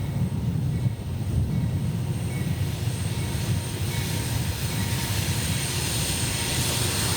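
Freight train with diesel locomotives rolling past: a steady rumble of engines and wheels on the rails.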